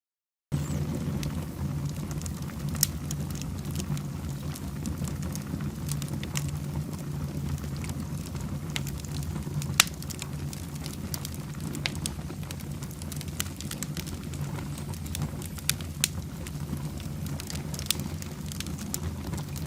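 Wood fire burning in a fireplace: a steady low rumble of flames with scattered sharp crackles and pops from the burning logs, one louder pop about ten seconds in. The sound cuts in after a moment of silence at the very start.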